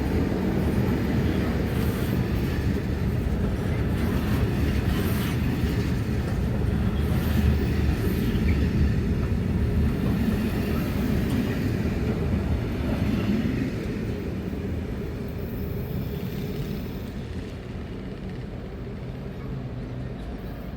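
Diesel-hauled work train pulling away: a steady diesel engine drone over the low rumble of wheels on the rails. It fades in two steps, about two-thirds of the way through and again near the end.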